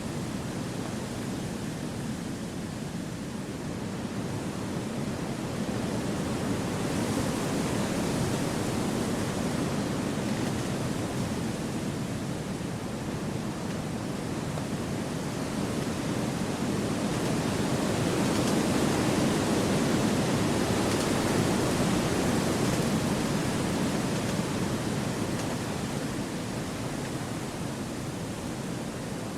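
Wind blowing through forest trees: a steady rushing that swells in two slow gusts, about a quarter of the way in and again through the middle to later part.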